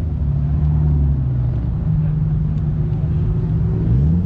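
Car engine running at low revs, with a short rev whose pitch rises near the end.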